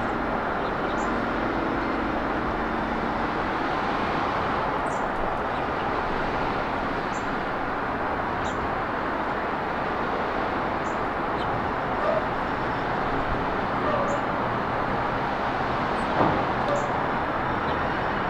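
Steady road traffic noise, with short high bird chirps every second or two over it.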